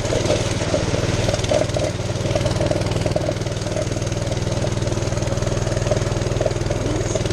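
Mini bike's small single-cylinder engine, governor removed, running steadily at a fairly constant speed.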